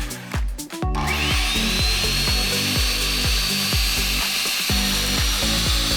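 Background music with a steady beat, over a circular saw's high whine that rises after a short break about a second in and then holds at a steady pitch.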